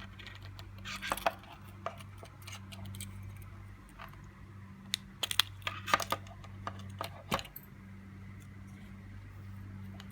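Car key remote being handled: a scatter of small sharp plastic and metal clicks and clatters, in a cluster about a second in and another from about five to seven seconds in, over a steady low hum.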